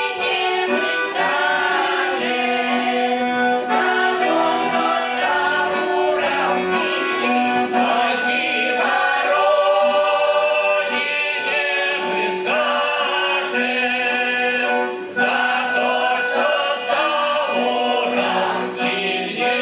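Russian folk ensemble singing in chorus to accordion accompaniment, the voices moving through a melody over steadily held chords.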